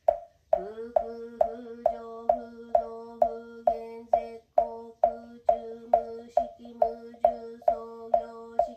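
Buddhist sutra chanting in a steady monotone, kept in time by a mokugyo wooden fish struck about twice a second, each knock ringing briefly. The chant pauses for breath about half a second in and briefly twice more.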